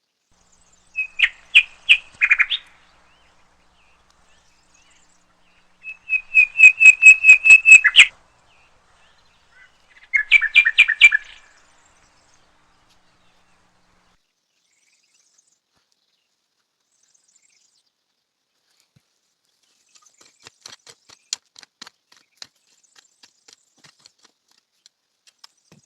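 A bird calling in three bursts of rapid repeated chirps, about five notes a second, the middle burst the longest. Faint scattered clicks follow near the end.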